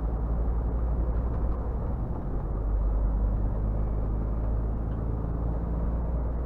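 Scania R 450 truck's six-cylinder diesel engine running steadily under way, a low drone with road noise.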